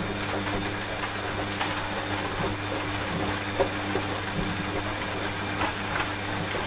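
Steady rain with scattered drops pattering, over a washing machine running with a steady low hum.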